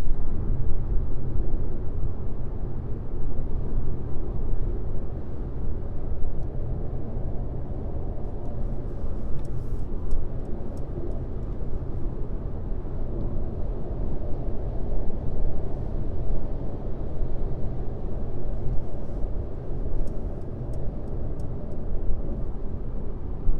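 Car driving at highway speed: a steady low road and tyre rumble with engine hum, heard from inside the vehicle. A few faint ticks come and go about a third of the way in and again near the end.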